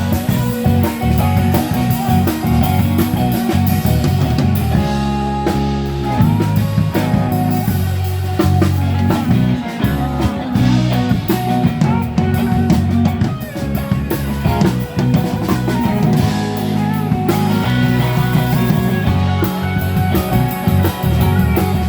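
Live rock band playing an instrumental break between sung verses: guitar over bass and drum kit.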